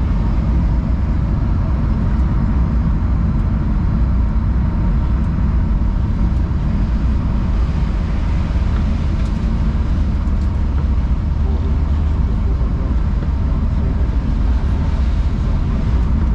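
A BMW E36 on the move, heard from inside the cabin: a steady, low engine and road drone at an even cruising pace.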